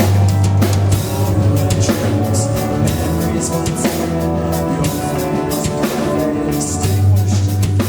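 Live rock band playing loud: drum kit hits over a deep bass line and sustained chords, with no vocals. The heavy bass drops back about a second in and swells up again near the end.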